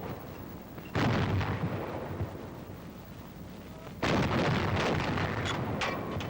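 90 mm antiaircraft guns firing: two heavy shots about three seconds apart, each with a long rumbling tail, and fainter sharp cracks between them.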